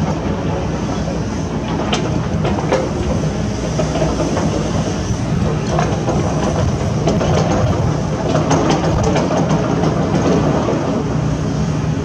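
Heavy excavator's diesel engine running steadily, with scattered sharp metallic clanks and knocks.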